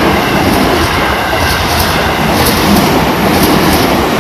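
Seibu Shinjuku Line electric train passing close by, its wheels clattering over the rail joints in quick pairs about once a second.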